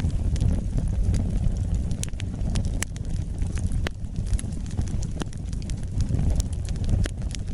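Wood fire burning, with a steady low rumble of flames and irregular sharp crackles and pops from the burning logs.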